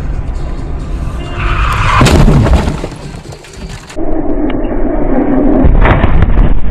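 Music playing, with a loud crash-like impact about two seconds in, typical of a car collision in dashcam footage.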